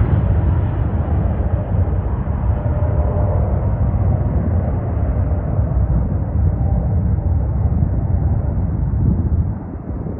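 Jet airliner on landing approach: a steady, loud low rumble of engine noise whose higher tones slowly fade away, easing off briefly near the end.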